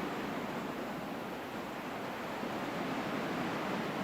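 Ocean waves washing on a shore: a steady hiss of surf.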